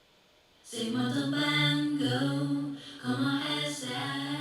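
Two stacked vocal takes of the same line sung without accompaniment: a man's voice and an AI-converted female version of it pitched higher, singing together. It comes in suddenly under a second in after near silence, in phrases with a brief break near the three-second mark.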